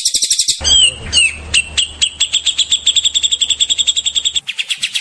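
Songbird tutor (masteran) recording: rapid strings of loud, high repeated notes, about ten a second. The recording cuts abruptly to a different bird's song about half a second in, and again near the end.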